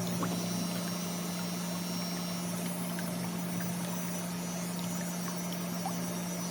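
Small electric motor running steadily with an even hum, with a few faint ticks over it.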